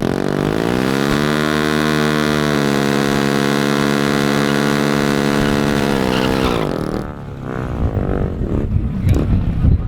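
Car engine revving up and held at high, steady revs for about five seconds, then dropping away sharply about six and a half seconds in.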